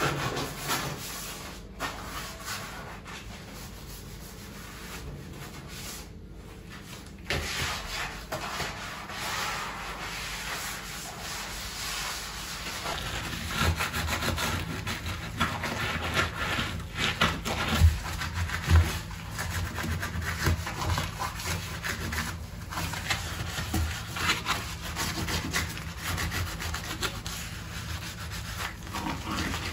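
Scrubbing by hand, a run of uneven rubbing strokes on a hard surface. It is lighter in the first few seconds and heavier from about a third of the way in.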